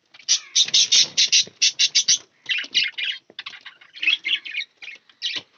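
Caged pet budgerigars and finches chirping and squawking together, a fast, dense run of short, repeated high calls.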